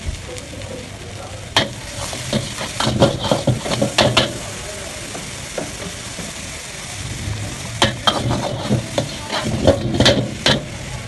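A cooking utensil scraping and clacking against a pan while stirring frying chicken noodles, over a steady sizzle. The strokes come in bunches with short pauses between them.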